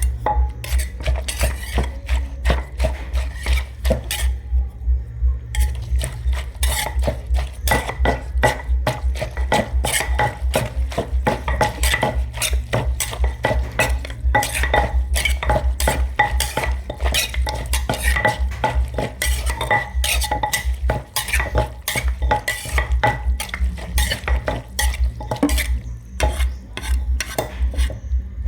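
Pestle pounding and tossing salad in a mortar, with a spoon clinking and scraping against the bowl: an even rhythm of about three to four thuds a second.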